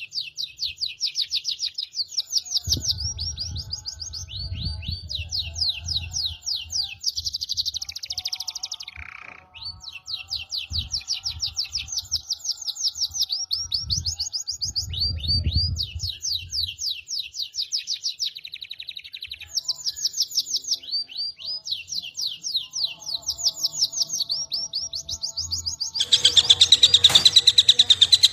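A songbird singing long phrases of rapid, repeated downward-sweeping high notes, several a second, with short breaks between phrases; the song grows louder and denser near the end. Low rumbling thuds underlie the first half.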